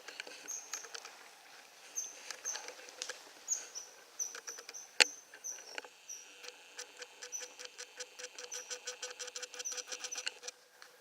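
A small animal close by: short high chirps about twice a second, one sharp click about five seconds in, then a fast rattling chatter of even clicks that stops shortly before the end.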